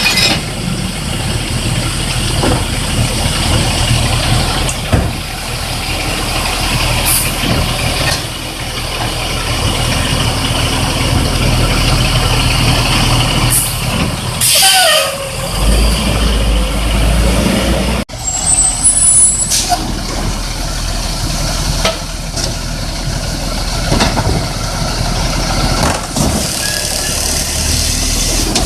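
Garbage truck's diesel engine running, with air-brake hisses and a falling whine about halfway through. The sound breaks off abruptly about two-thirds of the way in and the truck noise carries on.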